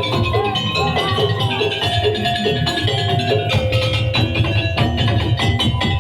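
Madurese daul (tong-tong) ensemble playing: drums and gongs beating a dense, steady rhythm under tuned metal percussion and a melody line.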